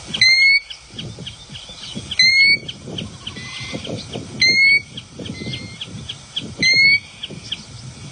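Pacific golden plover (kōlea) calling: four loud, short rising whistles about two seconds apart, with fainter chirping of other birds in the background.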